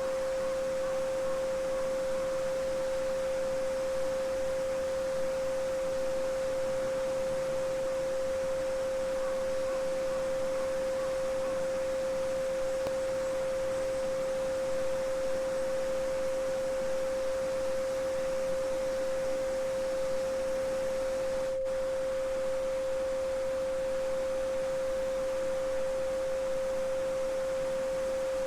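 A steady 528 Hz sine tone, the solfeggio frequency, held at one pitch over the continuous babbling of a small brook. About three quarters of the way through, the sound drops out for a split second.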